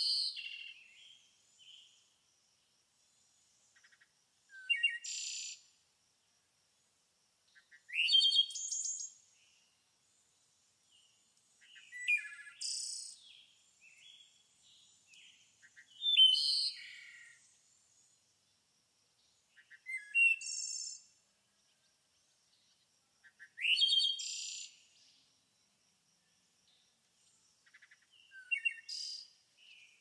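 Bird song: a short, high phrase about a second long, repeated roughly every four seconds, with softer chirps in between.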